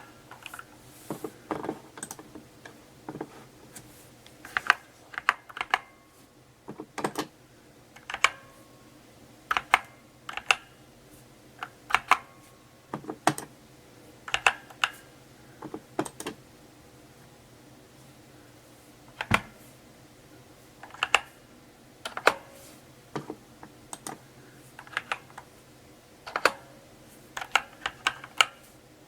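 Mechanical keyboard typed on slowly: single keystrokes and short clusters of key clicks, separated by pauses of one to three seconds.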